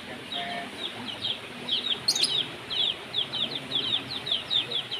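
Birds chirping: a steady run of short, high, falling notes, several a second.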